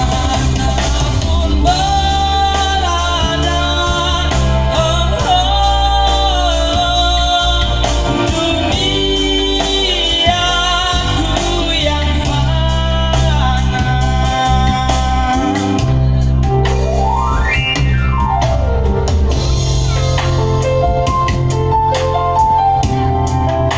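A singer with band accompaniment: a sung melody over steady bass and drums, followed by a quick rising-and-falling pitch sweep and stepped keyboard notes near the end.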